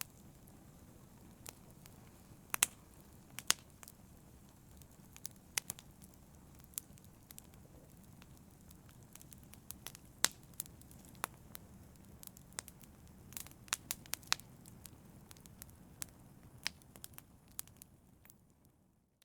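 Wood fire crackling in a fireplace: irregular sharp pops and snaps over a steady low rush of flame, fading out near the end.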